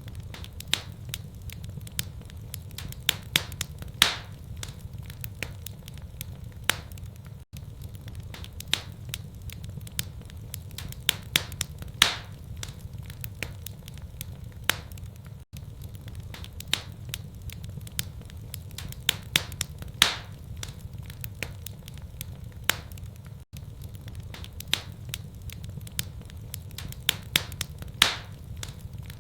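Fire in a fireplace crackling, with scattered sharp pops over a steady low rumble. The same stretch of crackling repeats every eight seconds, with a brief dropout at each repeat: a looped recording.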